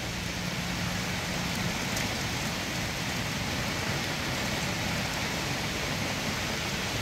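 Heavy thunderstorm rain pouring steadily onto the ground and trees, an even hiss.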